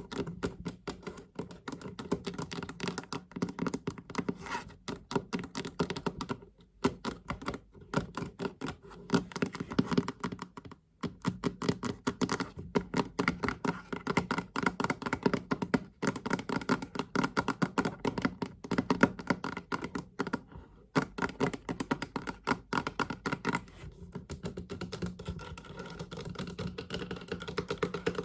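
Fast tapping on a chest, many quick taps a second in long runs with a few short breaks.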